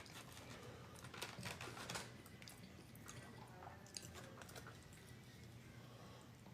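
Faint chewing of food close to the microphone, with a short run of soft clicks and crackles between one and two seconds in.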